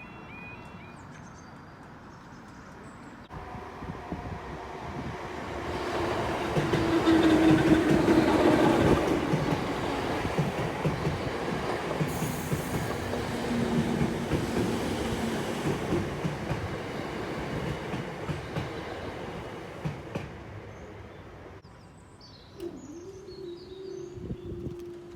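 A train passing over a level crossing, its wheels clattering over the rail joints. It builds up a few seconds in, is loudest soon after, and fades away near the end, when a steady tone starts.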